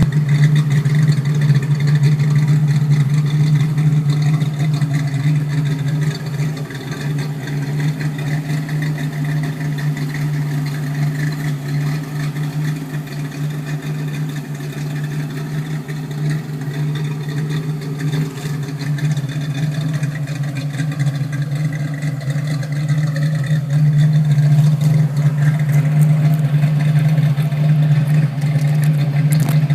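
1992 Fox-body Mustang 5.0 V8 running steadily through Mac Flowpath mufflers, an X-pipe and BBK shorty headers, with no clear revs; it gets somewhat quieter through the middle and louder again near the end.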